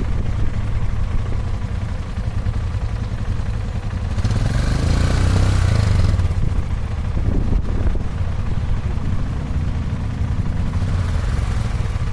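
Motorcycle engine running with a steady low rumble and wind rushing over the microphone. A louder rushing swell rises from about four seconds in and fades by about six and a half.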